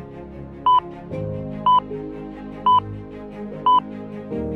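Short electronic beeps, four of them, one a second, like a countdown timer ticking off the thinking time before an answer. Soft background music with held notes underneath.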